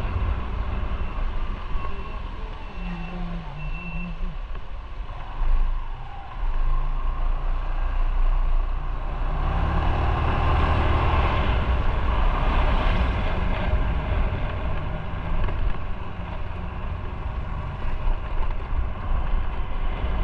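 Motorcycle riding on the road: steady engine and road noise that grows louder from about halfway through. Four short high beeps sound near the start.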